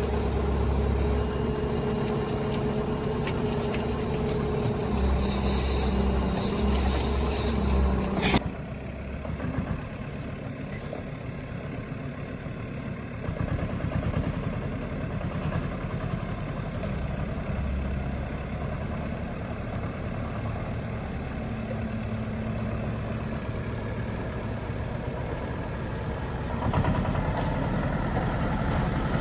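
Diesel engine of heavy earthmoving machinery running steadily. A single sharp knock about eight seconds in is followed by a quieter stretch, and the engine sound swells again near the end.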